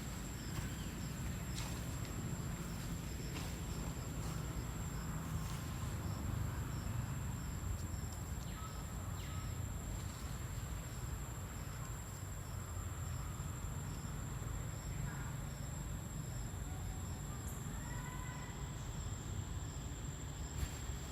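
Outdoor insect chorus: a steady high-pitched drone with regular cricket-like chirps about twice a second, over a low rumble. A few short rising calls come near the end.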